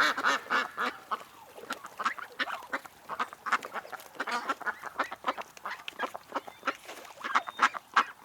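Duck quacking over and over, a few loud drawn-out quacks at first, then a rapid run of short quacks.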